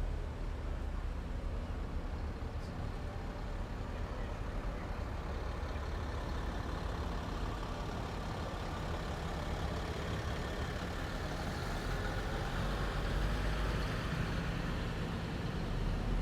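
Heavy military vehicles driving past on a street, a continuous low engine rumble with tyre and road noise that swells as a vehicle passes close in the second half.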